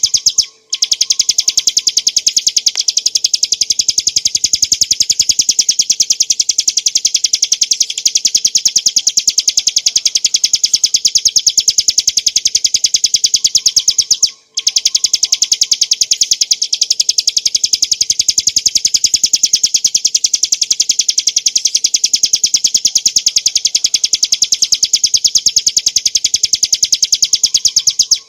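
Ciblek gunung, a mountain prinia, singing a long, fast trill of rapid, evenly repeated high notes. The trill breaks off twice for a moment, about half a second in and again about halfway through.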